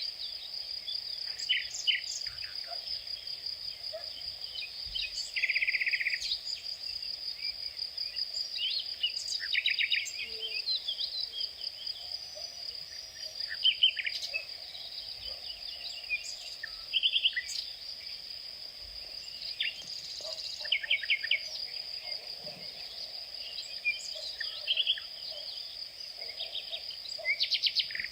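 Insects keep up a steady, high-pitched trill while birds sing over it in many short chirps and quick rattling trills.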